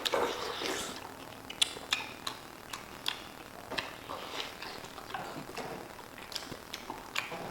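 Rapid, wet eating sounds of watermelon being bitten into and chewed fast: irregular sharp smacks and clicks with slurpy noise in between.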